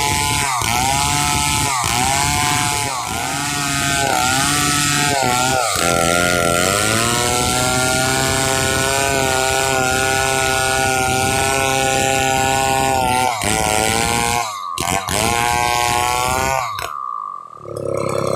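Stihl 070 two-stroke chainsaw running hard while ripping a log into planks. Its revs dip and recover several times in the first few seconds, then hold steady and high for several seconds, and the sound cuts out briefly twice near the end.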